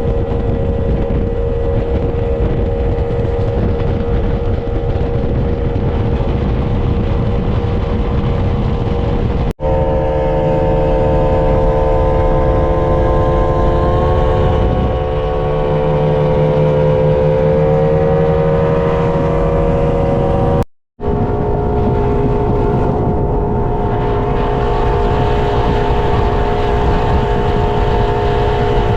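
High-performance powerboat engine running at steady cruising speed over a constant rush of noise. It is cut twice, about ten and twenty-one seconds in, and each time resumes at a slightly different pitch.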